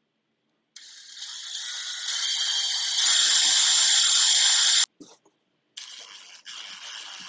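Power drill driving small stainless steel screws into PVC end caps: a high-pitched motor whir that grows louder and stops abruptly at about five seconds, then starts again about a second later.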